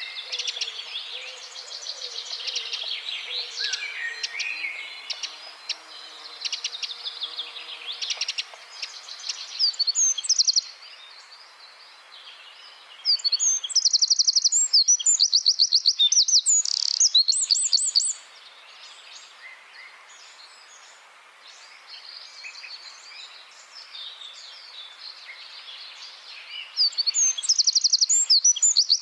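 Wren singing: softer twittering and chattering notes, broken by a loud, fast trill of rapidly repeated notes lasting about five seconds near the middle and another loud trill starting near the end.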